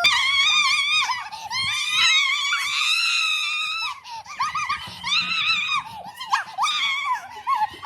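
High-pitched, wavering vocal cries: one long drawn-out cry of nearly four seconds, then several shorter ones after a brief break.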